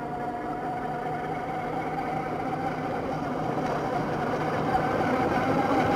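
Radio-controlled 6x6 model truck running, its motor giving a steady whine over gear and wheel noise that slowly grows louder.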